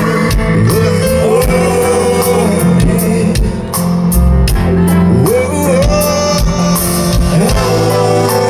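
Live reggae band playing, with bass, drums and guitar under a voice singing a melodic line.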